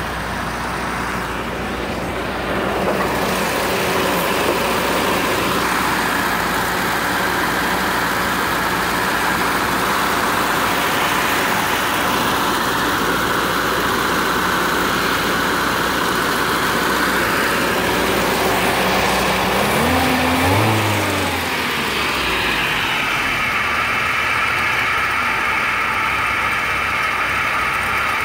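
1971 Toyota Celica ST's four-cylinder engine idling steadily, with one brief rev that rises and falls about two-thirds of the way through.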